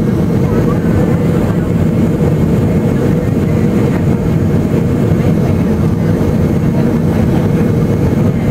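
Steady cabin noise of a Boeing 757 airliner in flight on final approach: engine and airflow noise heard from inside the passenger cabin.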